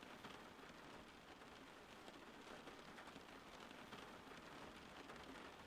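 Faint, steady rain: an even hiss with many small drop taps running through it.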